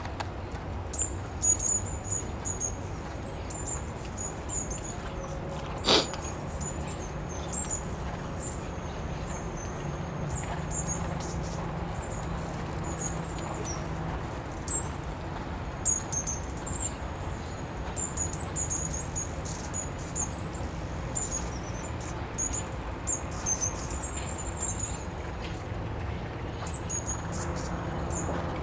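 Small birds chirping, many short high calls throughout, over a steady low rumble, with one sharp knock about six seconds in.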